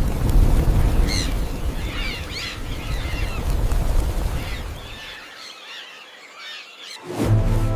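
Birds calling in short chirps and squawks, repeated over a low rumbling background for about five seconds. Near the end the bird calls give way to steady held tones.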